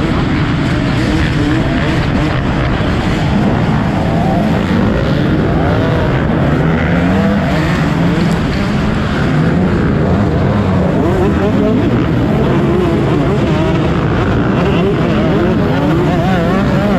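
Motocross bike engines revving hard, pitch rising and falling again and again as several bikes race over the track together.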